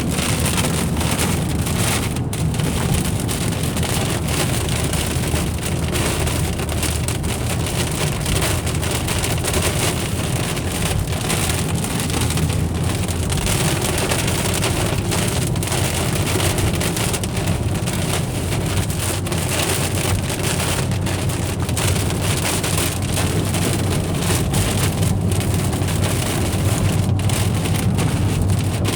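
Rain pattering on a moving car's roof and windshield over a steady low road and engine rumble, heard from inside the cabin.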